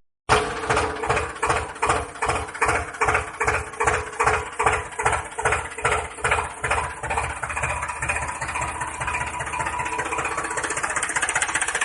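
Small motor of a DIY miniature tractor water pump running with a rhythmic knock about three times a second, settling into a steadier hum for the last few seconds.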